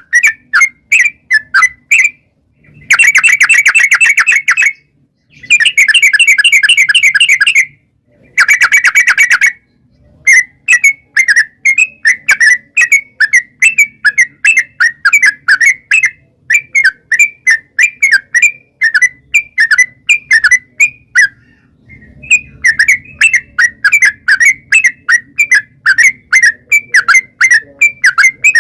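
Yellow-vented bulbul song: fast, bubbly chirping phrases repeated over and over. In the first ten seconds it breaks into three long, very rapid trills, the 'ropel' rattle that bird keepers play as a lure to make bulbuls answer.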